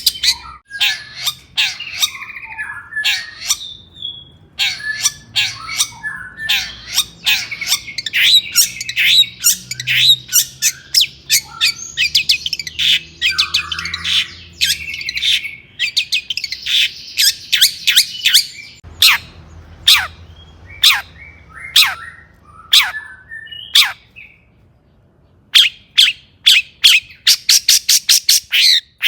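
Long-tailed shrike (cendet) singing a loud, varied, scratchy song of sharp chips and quick note runs. It breaks off briefly about two-thirds through, then finishes with a fast string of repeated notes.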